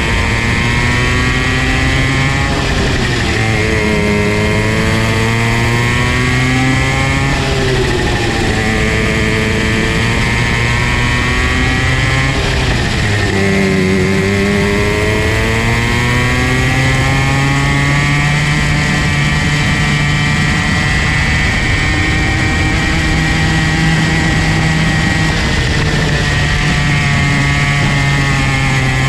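Comer C50 50cc two-stroke kart engine running hard, its revs dropping and climbing back up three times, then holding higher and steadier.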